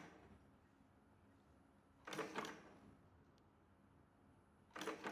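SF4T semi-automatic servo terminal crimping machine cycling: a short mechanical burst of about half a second, with clicks over a low servo tone, about two seconds in and again near the end, with quiet in between.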